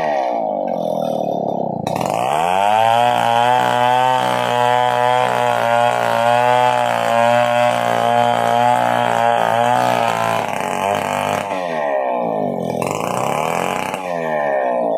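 Stihl 070 chainsaw's two-stroke engine: it drops back at the start, revs up about two seconds in and is held at high speed for about eight seconds, then falls off and is revved up and down twice more near the end.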